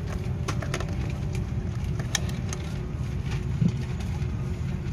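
Steady low rumble of an Airbus A330-300's cabin before takeoff, with scattered light clicks and knocks.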